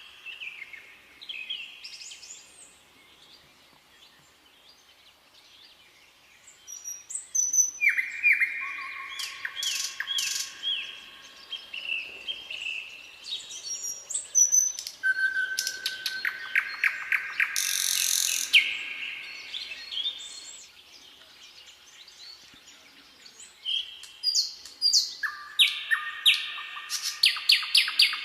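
Songbirds singing in phrases of repeated chirps and fast trills, with quieter gaps of a few seconds between phrases.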